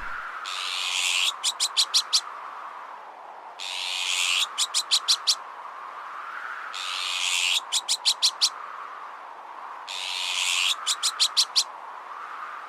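Azure-winged magpie alarm calls played on a loop. Each call is a harsh rasp of about a second followed by a quick rattle of five or six short notes, repeating about every three seconds, over a rising and falling whoosh of strong wind.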